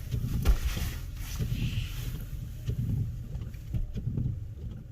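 Low, uneven rumble of a car idling, heard from inside the cabin, with a single thump about half a second in.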